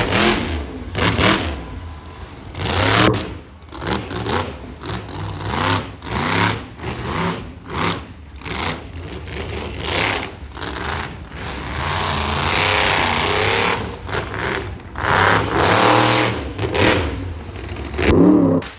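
Monster truck engine revving hard, its pitch rising and falling over and over as the throttle is opened and closed in quick bursts.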